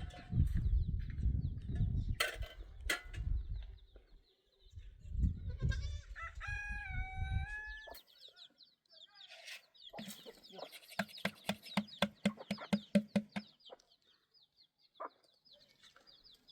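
A rooster crows once, about six seconds in, in one long stepped call. A quick run of chicken clucks follows around eleven seconds in. Small birds chirp high throughout, and a low rumble fills the first few seconds.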